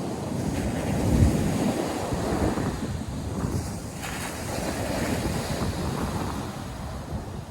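North Sea surf washing and breaking on the shore, with wind buffeting the microphone in low gusts, strongest about a second in.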